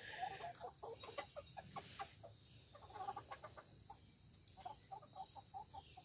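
Backyard chickens softly clucking in runs of short, repeated notes, over a steady high-pitched whine.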